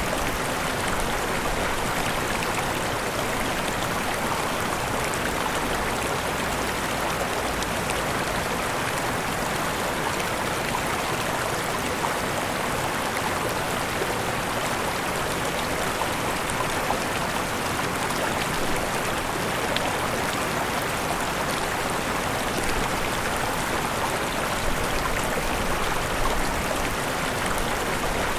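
Waterfall: steady rushing and splashing of falling water, an even, unbroken rush.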